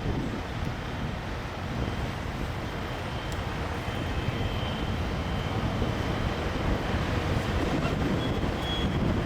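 Steady low rumble of a semi truck's diesel engine running.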